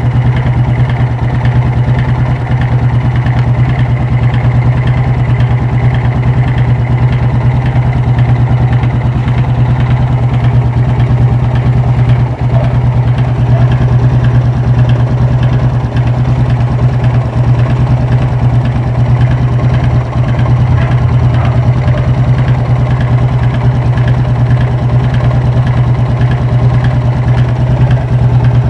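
Yamaha Fazer 250's single-cylinder engine running steadily at idle, close up. The bike was brought in for a very strange engine noise, with its firing uneven.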